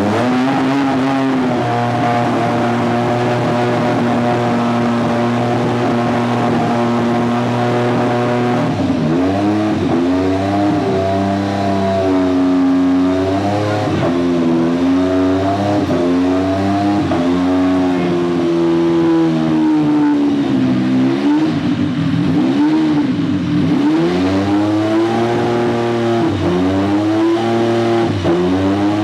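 Williams FW11 Formula One car's Honda 1.5-litre turbocharged V6 being warmed up: it holds a steady raised idle for the first eight or nine seconds, then the throttle is blipped over and over, the revs rising and falling.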